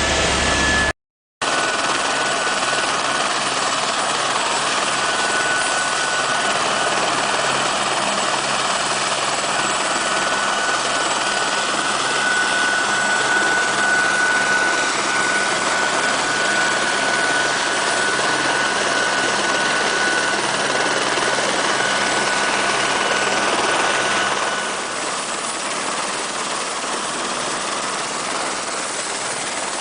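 Helicopter in flight: a steady, dense engine and rotor noise with a faint high whine running through it. The sound is briefly cut to silence about a second in and eases down a little near the end.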